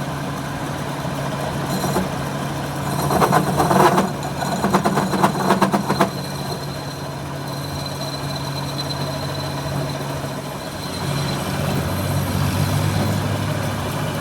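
A truck engine idling steadily. A louder stretch of rapid rattling runs from about three to six seconds in, and the engine note changes a little near the end.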